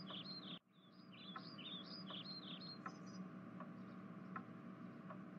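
Faint background birdsong: a quick run of short chirps, cutting out briefly about half a second in and then running on for about two more seconds. Under it are a steady low hum and a few faint ticks.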